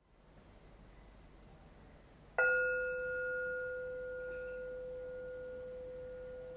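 A singing bowl struck once about two and a half seconds in, its clear tone ringing on and slowly fading, with a couple of fainter higher overtones above it.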